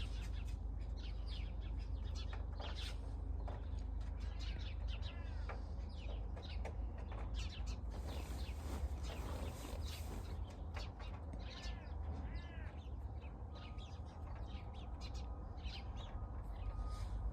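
Many birds chirping and calling, with short repeated chirps and a few arching calls, over a steady low rumble.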